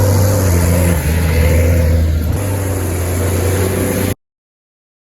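Tractor engine running steadily with a deep hum. The sound cuts off abruptly about four seconds in, leaving silence.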